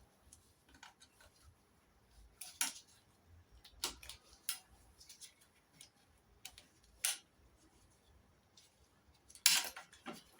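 Scattered metallic clicks and clinks of hand tools and small carburettor linkage parts being handled, a few seconds apart, with the loudest cluster near the end.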